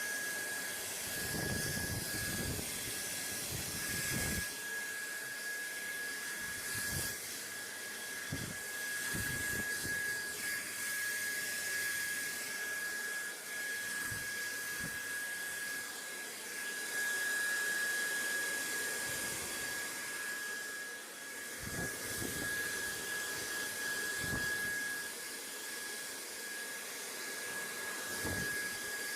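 Steady white-noise hiss like a fan or blower, with a constant high whine running through it and irregular soft low rumbles now and then.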